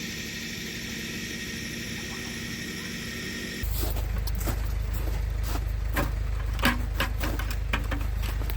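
Steady rain hiss. About three and a half seconds in it changes suddenly to a louder, closer sound of drops ticking and pattering near the microphone over a low rumble.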